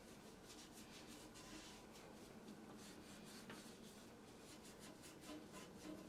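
Faint, repeated rubbing strokes of a surface being wiped and scrubbed clean, several strokes a second.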